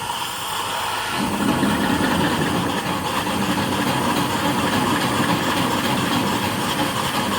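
The steam donkey's twin small steam engines (2.75-inch bore, 4-inch stroke) are opened up on the throttle and run slowly, getting louder over the first second and then running steadily. Steam and water hiss from the open cylinder pet cocks, as is normal when the engines are first started.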